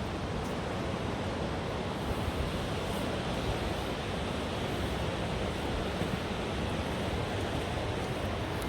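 River water rushing steadily over rapids.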